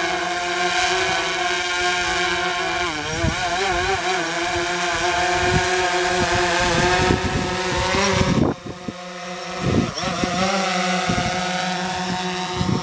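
DJI Phantom 4 quadcopter's propellers buzzing in flight, a steady multi-toned hum whose pitch wavers as the drone adjusts. The sound drops away briefly about two-thirds of the way through, then returns.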